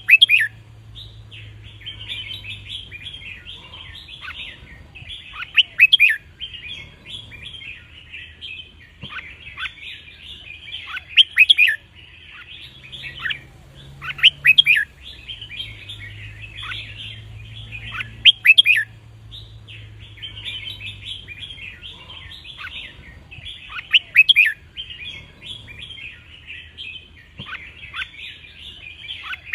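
Red-whiskered bulbuls singing: a steady mass of chirping, broken every few seconds by a loud song phrase.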